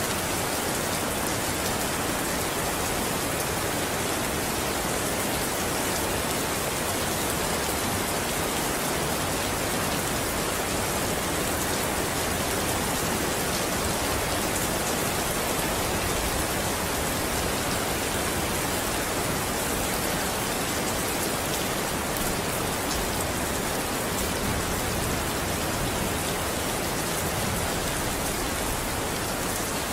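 Steady rainfall, a dense even hiss of drops pattering on a surface.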